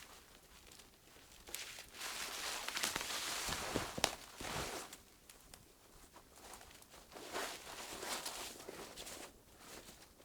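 Footsteps with rustling, coming unevenly, with a few sharp clicks; the loudest stretch is about two to five seconds in and a smaller one comes near the end.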